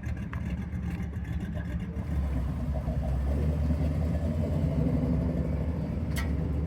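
A car engine running at low revs, getting louder about two seconds in as the car comes closer or is revved slightly.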